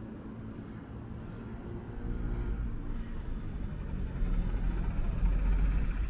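A motor vehicle running close by, its low rumble growing louder over the last few seconds.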